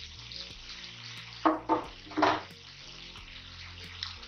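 Goat intestines, onion and tomato frying in a kadai with a steady sizzle, broken by three brief louder sounds about a second and a half to two and a half seconds in.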